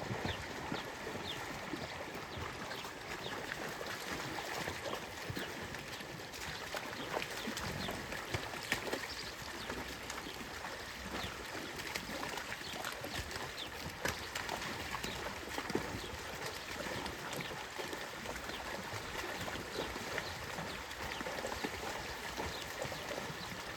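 Shallow stream water running and splashing, with frequent small sharp splashes and knocks scattered throughout, a few of them louder.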